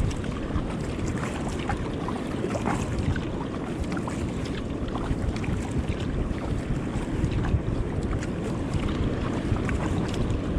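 Wind buffeting the microphone over rushing, churning seawater around a fishing kayak in the surf, with small splashes scattered throughout.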